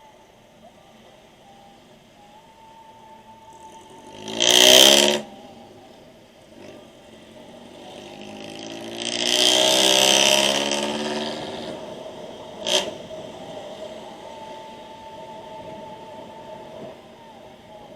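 Road traffic going by: a vehicle passes quickly about four seconds in, and a longer, louder pass swells and fades around nine to eleven seconds, each engine note dropping in pitch as it goes by. A single sharp click comes near thirteen seconds.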